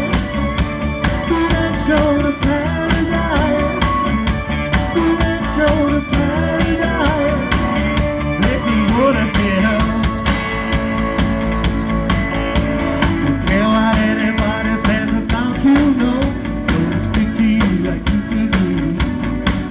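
A rock band playing live: drum kit keeping a steady beat under electric guitar and bass, with a voice coming in over it.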